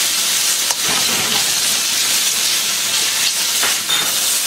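Marinated beef slices searing over high heat in a wok with vegetables: a loud, steady sizzle, with a few faint scrapes of the spatula against the wok.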